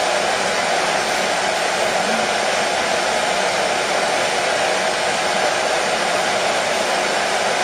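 Hair dryer running steadily: a constant, unchanging rushing noise, strongest in the lower middle of its range.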